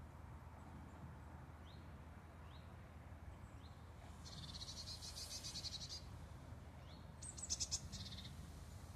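Animal calls: a few short rising chirps and two rapid, high-pitched trills, the second trill the loudest, over a steady low hum.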